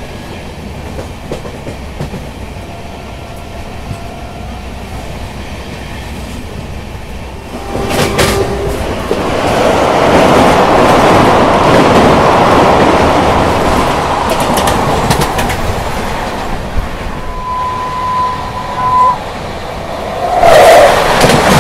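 Indian Railways express train running at speed, heard from the open doorway of a moving sleeper coach: a steady rumble with wheel clickety-clack that grows louder about eight seconds in. A short steady high tone sounds near the end, and then a sudden loud rush as an oncoming train passes alongside on the next track.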